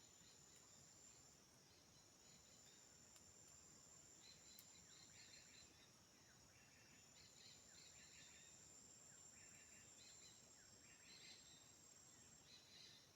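Faint forest insect chorus: a steady high-pitched drone that breaks off briefly a few times, with short bursts of chirping calls every second or so.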